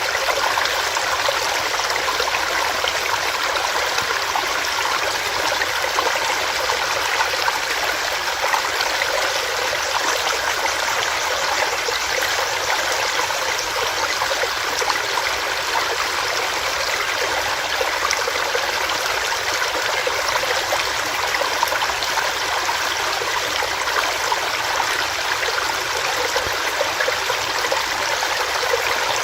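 Small rocky stream running steadily over stones: a continuous, even rush of water with fine splashing and trickling.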